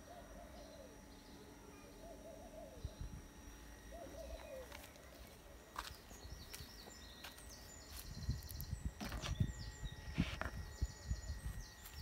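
Birds calling: a few low cooing calls in the first five seconds, then quick high chirps. From about eight seconds in, low bumps and rumbling from handling noise on the microphone, the loudest part.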